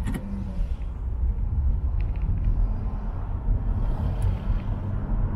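Steady low road and engine rumble of a car driving in city traffic, heard from inside the cabin by a dashcam. There is a sharp click at the very start and a few faint ticks about two and four seconds in.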